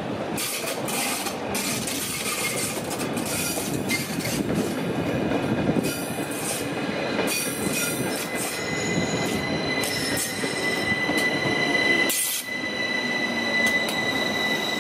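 Rhaetian Railway ABe 4/16 electric multiple unit rolling into the station, its wheels clicking over rail joints. From about eight seconds in a steady high squeal sets in as it slows to a stop, with a loud clack about twelve seconds in.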